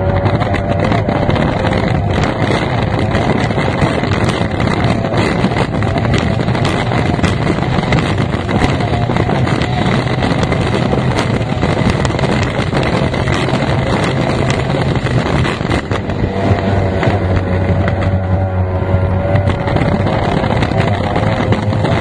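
F1 tunnel-hull racing powerboat's outboard engine running loud and steady, its pitch wavering slightly, with wind buffeting the microphone.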